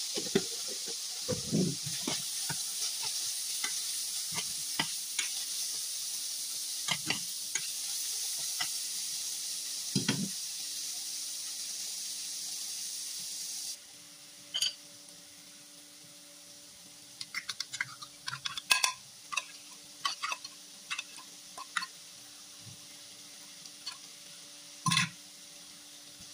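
Bitter gourd and sliced shallots sizzling in a stainless steel frying pan, with a spatula clicking and scraping against the pan as it is stirred. About halfway through, the sizzle cuts off abruptly, leaving a quieter stretch with bursts of spatula clicks and scrapes.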